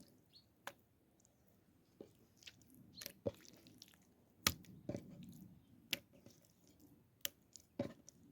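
Food being handled and cut: irregular sharp knocks with soft wet squishing between them, about eight knocks in all.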